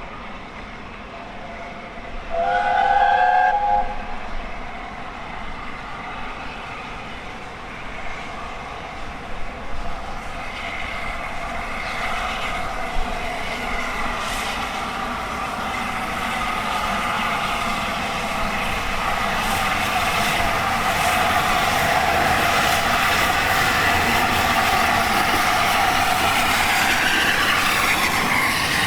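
A short whistle blast with several pitches sounds about two and a half seconds in. Then LNER A4 Pacific steam locomotive 4498 Sir Nigel Gresley and its train approach, growing steadily louder as they run into the station, with squealing tones over the rumble.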